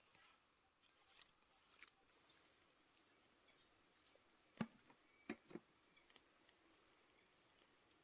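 Near silence with a faint steady high whine, broken by three short clicks or knocks a little past halfway, the first the loudest.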